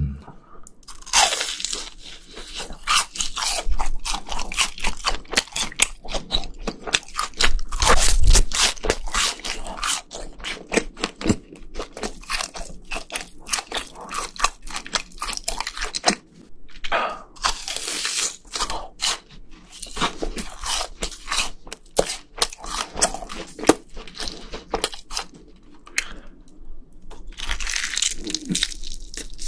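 Close-miked crunching and chewing of crisp fried food, seasoned cheese balls and fried chicken: a dense, irregular run of crackly crunches with wet chewing between, loudest about eight seconds in.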